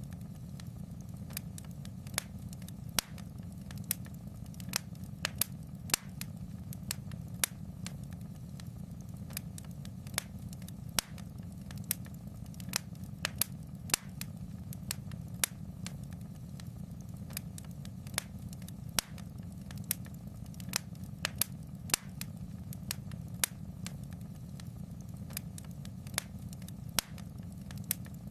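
Wood fire burning in a fireplace: sharp irregular crackles and pops, several a second, over a steady low rumble.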